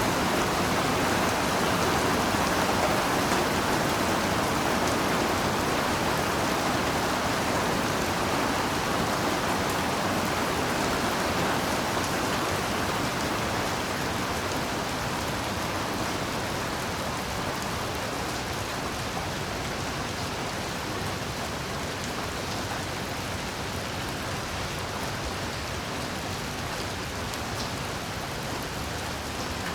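Heavy rain falling steadily as a dense, even hiss of drops, with no thunder. It eases slightly in loudness over the second half.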